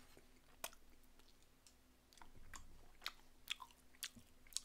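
Faint close-up chewing of a mouthful of glazed half-dried pollock (kodari gangjeong), with a handful of short, sharp wet mouth clicks at irregular intervals.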